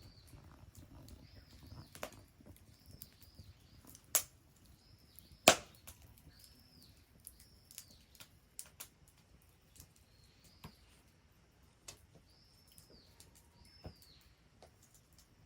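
Wood fire crackling, with sharp pops and snaps from the burning wood: three loud snaps in the first six seconds, then fainter scattered ticks.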